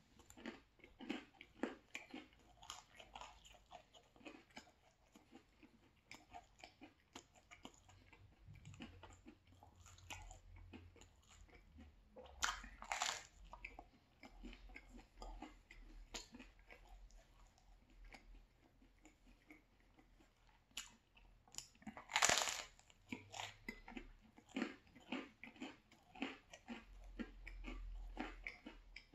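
Close-up chewing of a thin-crust pesto and cheese pizza: soft, wet mouth clicks and crunching of the crust throughout, with two louder crunches about 13 and 22 seconds in.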